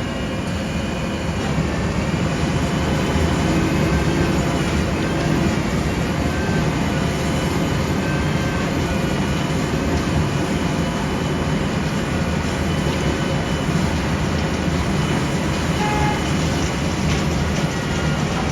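An Airbus A400M Atlas's four turboprop engines running as a steady drone: a low rumble with several faint held tones above it that bend slightly in pitch.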